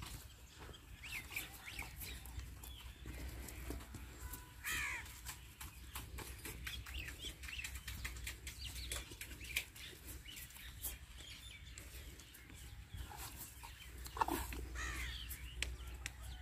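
Farmyard birds calling now and then, with louder calls about five seconds in and again near the end, over scattered small clicks and a low hum.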